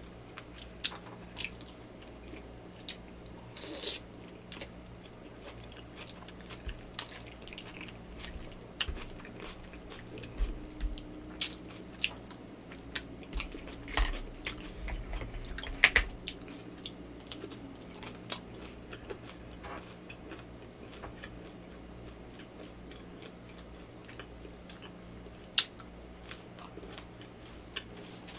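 Close-miked eating of Yakamein beef noodle soup: chewing with scattered sharp wet mouth clicks and short crunchy strokes, busiest in the middle, with one loud click about two thirds of the way through.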